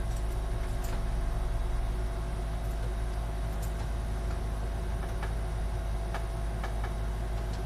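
Steady low hum with a few faint clicks and taps scattered through it, as computer parts are handled while a card is forced into an old PC case.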